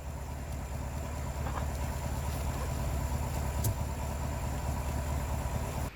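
Steady low engine-like hum with a short click about three and a half seconds in, cutting off abruptly near the end.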